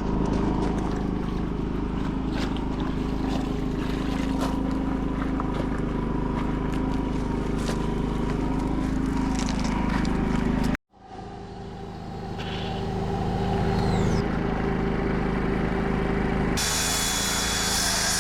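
Pressure washer running steadily during a truck rinse, a constant motor hum with spray hiss. The sound drops out sharply about eleven seconds in and changes character near the end, as at cuts between takes.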